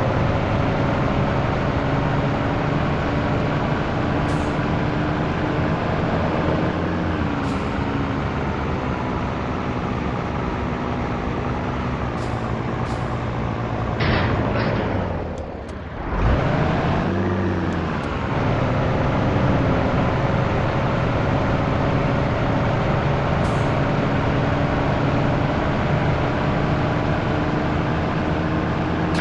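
Scania T113 truck's diesel engine pulling steadily on the road. About halfway through the engine drops off with short hisses of air, then picks up and climbs again, as in a gear change.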